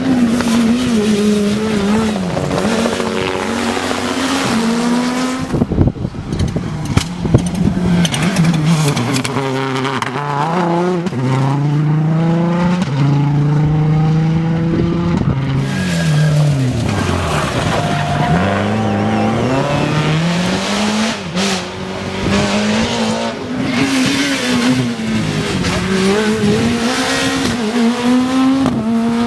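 Turbocharged rally cars racing on a tarmac stage: engines revving hard, pitch climbing and dropping again and again through gear changes. A cluster of sharp cracks comes from about six to eight seconds in.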